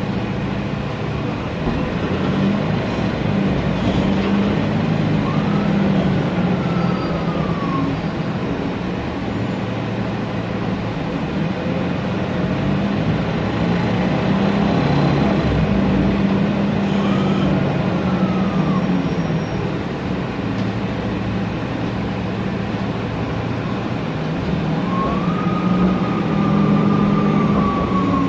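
Mercedes-Benz Conecto NGT city bus running, its CNG engine giving a steady low drone under a cooling-fan noise, with the Voith DIWA automatic transmission's whistle rising and falling in pitch three times: near the start, about halfway, and near the end.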